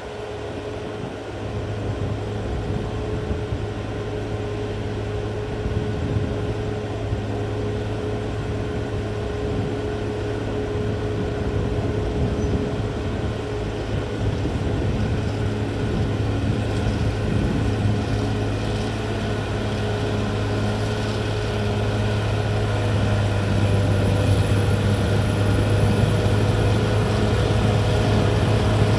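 CAT D6R XL bulldozer's diesel engine running steadily with a deep, even hum, growing gradually louder.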